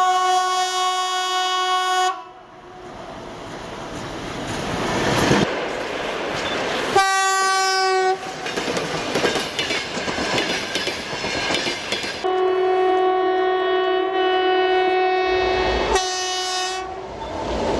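Train horn sounding several blasts over the rushing rumble of a moving train. The first long blast ends about two seconds in, a short one comes about seven seconds in, and a longer one from about twelve seconds ends in a brief higher note.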